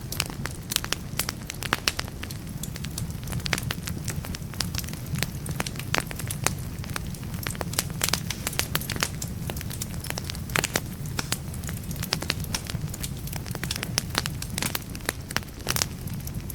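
Wood fire burning in a fireplace, crackling and popping irregularly with many sharp snaps over a steady low rumble.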